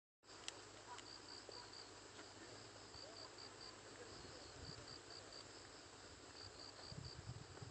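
Faint insect chirping: short high pulses in runs of three to five, repeating every second or two over a quiet hiss. A low rumble rises near the end.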